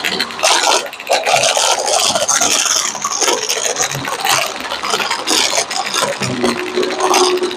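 Vacuum cleaner brushroll running close to the microphone, with dense, uneven crunchy crackling and scraping.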